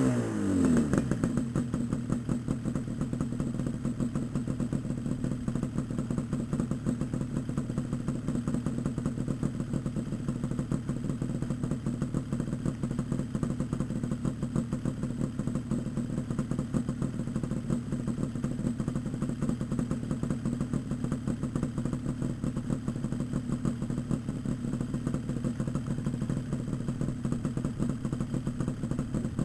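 Yamaha RD350LC two-stroke parallel twin running through Micron expansion chambers with freshly repacked silencers. It drops back from a throttle blip in the first second, then idles steadily.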